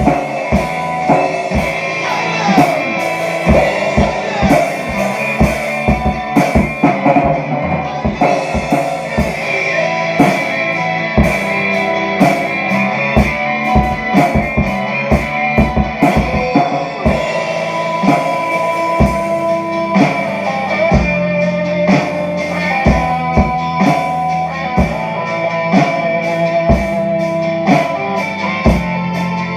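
A rock song with electric guitar, with a drum kit played along to it, kick and snare strokes keeping a steady beat.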